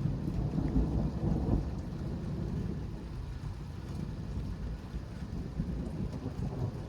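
Thunderstorm: a low, uneven rumble of thunder and wind, a little louder in the first second and a half, with rain.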